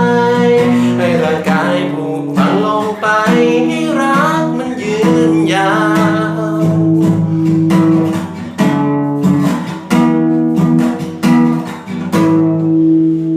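Song outro on strummed acoustic guitar, with a voice singing without clear words over the first few seconds. It ends on a held chord that rings out.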